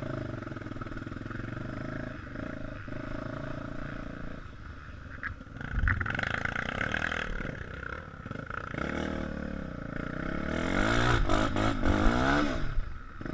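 Off-road motorcycle engine running, with the revs rising and falling; it revs up briefly about six seconds in and climbs loudest over a longer stretch near the end before backing off.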